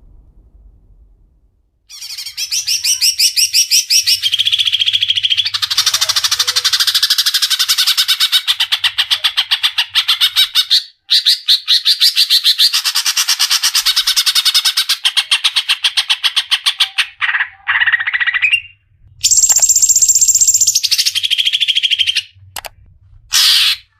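Greater green leafbird (cucak ijo) singing in full song: long runs of fast, rapidly repeated chirping notes that start about two seconds in, broken by a few short pauses, with stretches of higher held whistles near the end.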